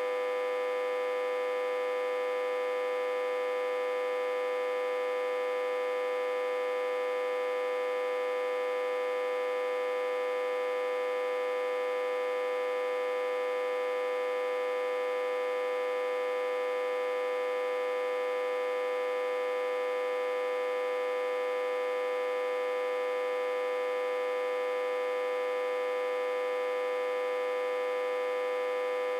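Autotransformer humming: a steady, buzzy, fairly high-pitched hum that does not change. The autotransformer is reverse-connected into a step-down transformer with about 60–80 V input, which drives the hum.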